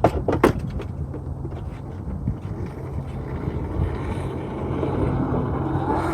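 A vehicle's motor running steadily with a low hum, with two sharp clicks at the start; it grows louder and busier near the end.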